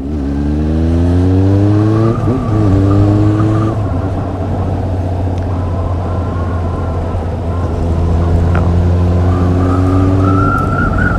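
Honda CB400 Super Four's inline-four engine running under acceleration, its pitch rising for about two seconds, breaking briefly, then rising again before settling to a steady hum at cruising speed. A steady engine note holds again from about eight seconds in, over an even rush of road and wind noise.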